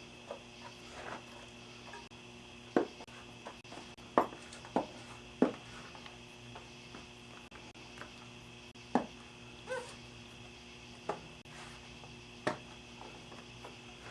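Irregular sharp knocks and clicks, about eight of them, from hands working on bicycle wheel and tire parts, over a steady hum, with a short squeak about ten seconds in.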